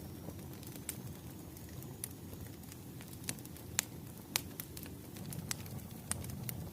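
Wood fire crackling: a steady low rumble of flames with scattered sharp pops and snaps, the two loudest a little under four seconds and about four and a half seconds in.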